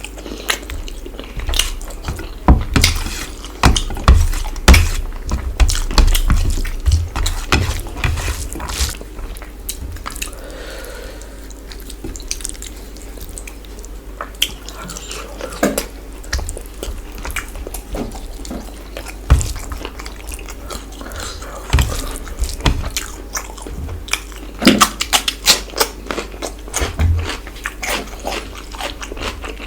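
Close-miked eating of chicken curry and rice: wet chewing, lip smacks and bites as clusters of sharp clicks, busiest near the start and again near the end.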